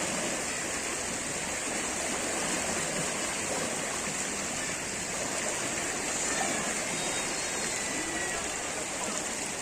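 Flowing floodwater, a steady rush of water with no breaks.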